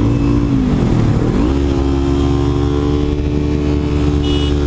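Kawasaki Ninja 300 parallel-twin engine running at steady revs on the move. Its note dips and climbs back about a second in, then holds steady.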